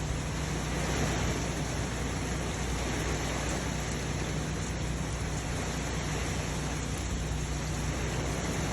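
Heavy rain and strong storm wind: a steady hiss with a low rumble underneath.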